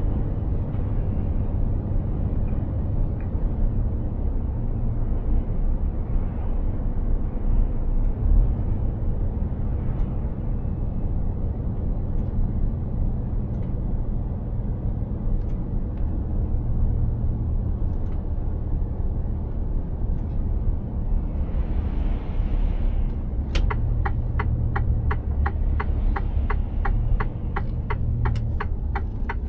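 Steady low engine and road rumble inside the cab of a Mercedes-Benz Actros truck under way. Near the end a brief hiss, then a regular ticking of about three a second from the turn-signal indicator.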